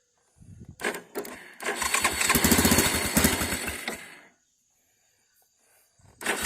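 Yamaha Grizzly 660's single-cylinder engine catching about half a second in, running louder for a couple of seconds, then fading and stalling about four seconds in. It is the fault being chased: the engine falls on its face and cuts off when given gas. Another loud engine-like sound starts again just before the end.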